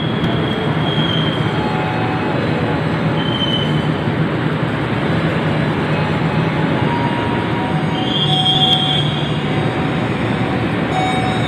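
Passenger train carriages rolling past along a station platform with a steady rolling noise, the wheels giving brief high squeals near the start, about three and a half seconds in, and again around eight to nine seconds in.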